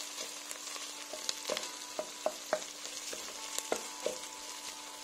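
Onions and tomato paste sizzling in oil in a stainless steel pot as they are stirred, with a scattering of sharp clicks from the utensil knocking and scraping against the pot.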